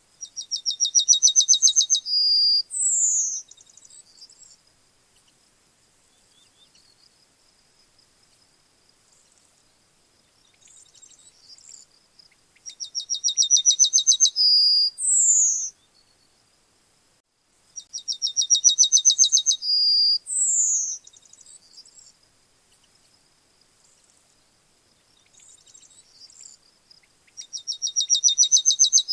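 Male yellowhammer singing its song four times. Each song is a fast run of repeated high notes, rising slightly in pitch over about two seconds, and ends in a held note and a short falling note. Faint chirps sound between the songs.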